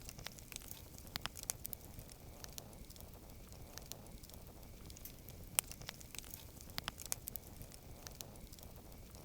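Wood campfire crackling faintly, with sharp irregular pops over a low background rumble; one pop stands out about halfway through.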